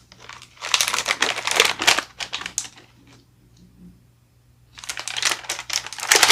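Plastic snack packaging crinkling as it is handled, in two spells of dense crackling about two seconds apart with a quiet pause between.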